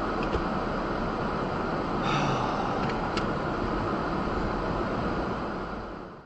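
Steady rumble of a vehicle on the move, with a couple of faint clicks and a slight swell about two seconds in, fading out at the end.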